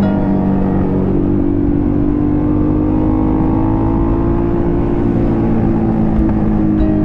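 Motorcycle engine running steadily under way, its pitch rising slightly about a second in and easing down again near the end.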